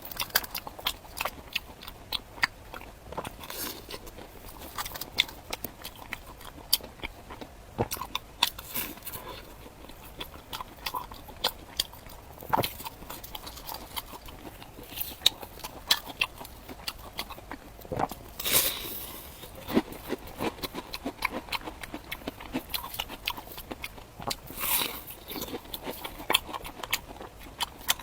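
Close-miked biting and chewing of deep-fried bread: a dense, irregular run of short crunching clicks, with a few longer, louder bites about two-thirds of the way through and again near the end.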